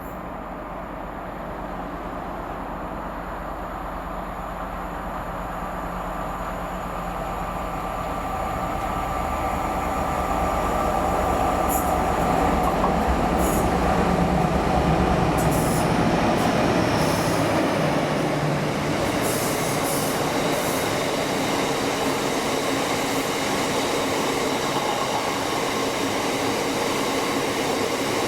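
A train running past on the railway: the noise builds over about fifteen seconds to a steady loud rumble with a low hum, with a few brief high-pitched squeaks in the middle.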